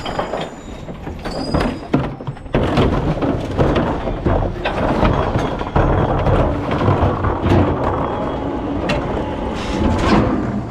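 Rear-loader recycling truck working: its engine runs under a dense, continuous clatter of rattles and knocks.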